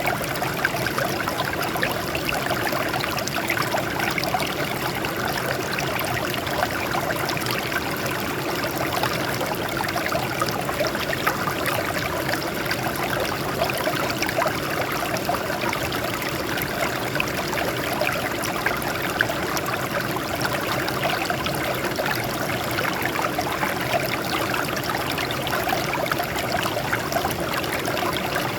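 Water flowing and trickling over rocks, a steady splashing babble with no pauses.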